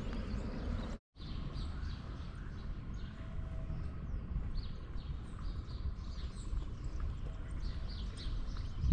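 Birds chirping and calling, many short high calls scattered over a steady low rumble of outdoor background noise. The sound cuts out completely for an instant about a second in.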